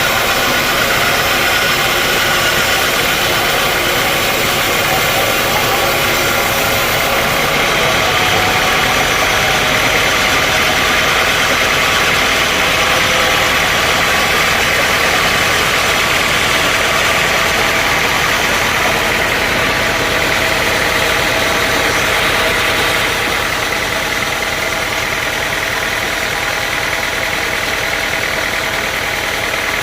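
Sawmill machinery running steadily, a continuous loud mechanical drone that drops slightly in level about two-thirds of the way through.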